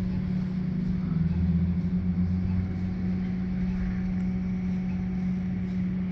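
A vehicle engine running steadily with a low, even hum. A deeper rumble swells for a second or two early in the stretch.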